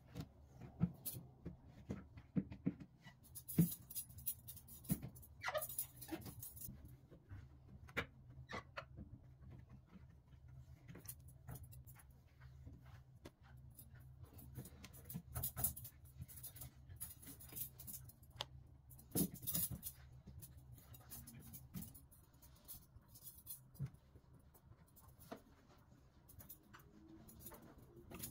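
Light, scattered clicks, knocks and brief rustling swishes of household items being handled and put away, over a steady low hum.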